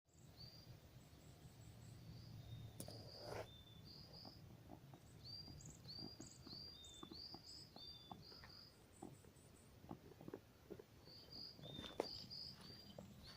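Faint wild birdsong: a run of short, high chirping notes repeated over and over, with a few soft clicks.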